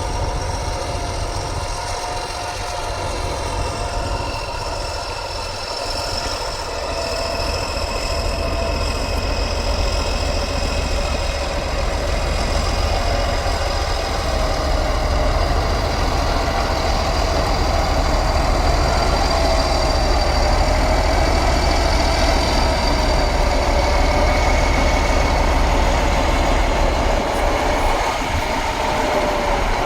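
Heavy off-road truck's engine running and working, with a high whine that wavers slightly in pitch over a deep rumble. It grows steadily louder over the first twenty seconds or so, then holds.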